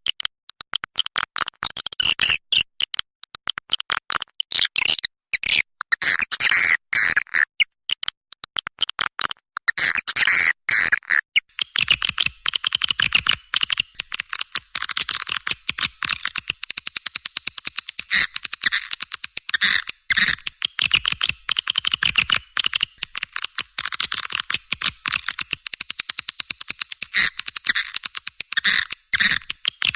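Swiftlet lure call recording: a dense, rapid chattering of high chirps, played to attract swiftlets. About twelve seconds in, the chirps become an almost unbroken run.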